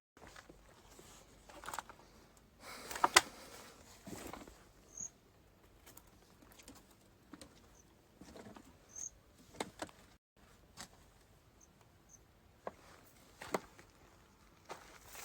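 Slow, irregular footsteps and scuffs on a gritty floor, with a sharper clatter of clicks about three seconds in. A few faint, short high chirps are heard now and then.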